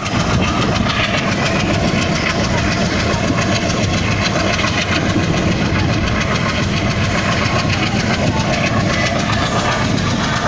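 A moving train running steadily, its wheels giving a continuous rumble on the rails.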